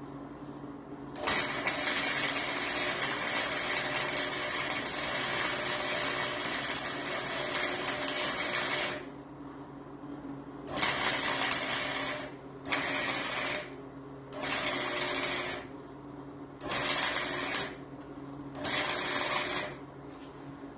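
Wire-feed welder arcing: one long weld of about eight seconds, then five short welds of about a second each, with a steady hum underneath.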